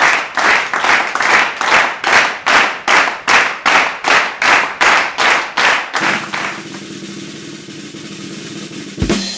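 Celebration sound effect of sharp percussive strokes, like clapping, about three a second for some six seconds, then a steady held sound with hiss and a sharp hit near the end that fades out: a reward cue for a right answer.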